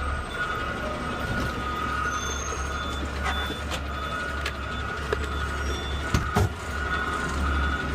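Peterbilt 520 CNG garbage truck's engine running steadily, with a steady whine above it and a faint short beep repeating about twice a second. Two sharp knocks come a little after six seconds in.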